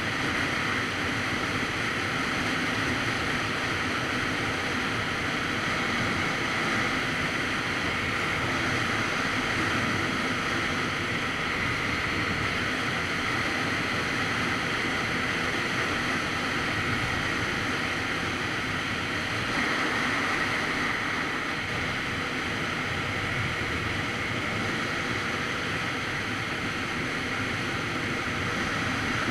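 Steady wind noise rushing over the microphone of a Kawasaki Z900RS Cafe at riding speed, with the motorcycle's engine running underneath.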